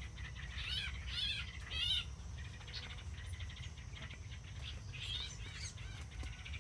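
Small songbirds chirping in repeated bursts of quick, arching notes, loudest in the first two seconds and again about five seconds in, over a steady low rumble.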